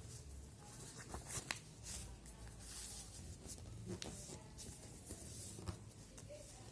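Faint rustling and creasing of a sheet of paper being folded by hand, with a few sharp clicks about a second and a half in, at four seconds and near six seconds.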